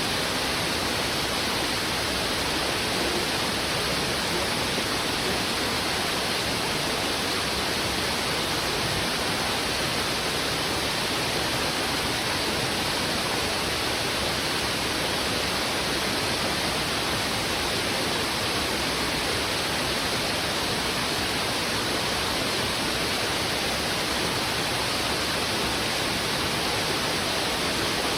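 Fast, heavy river water rushing over rocks: a steady, unbroken rush of water with no distinct splashes or pauses.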